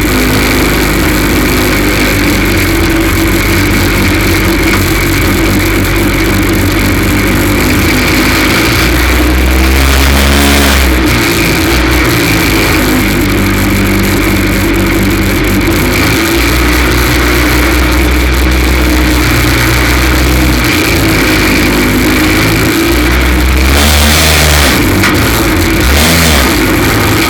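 F2 stock car engine running hard under race load, the revs dropping and picking up again twice. The engine has a misfire, which the team puts down to a cracked spark plug.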